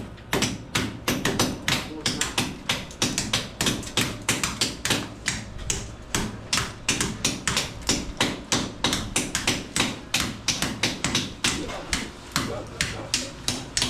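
Steady, rapid hammer tapping, about four blows a second.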